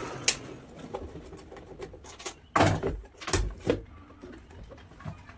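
A few sharp knocks and clicks of hard objects being handled, the loudest about two and a half seconds in.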